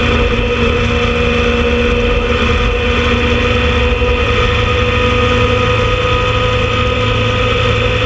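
Motorcycle engine running at a steady speed, a constant low rumble with a level, unchanging pitch.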